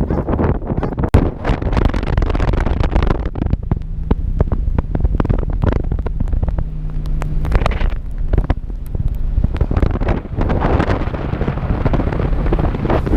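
Wind buffeting the microphone in a snowstorm, a constant low rumble broken by many short knocks and crackles. A faint steady low hum sits under it in the middle.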